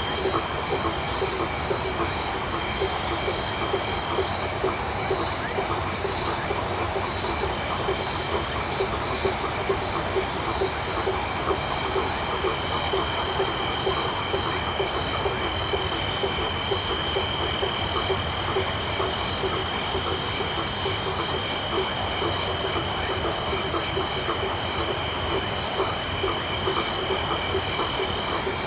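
Tropical night chorus of frogs and crickets: frogs calling in quick repeated notes low down, under steady high insect trilling and a continuous shrill tone.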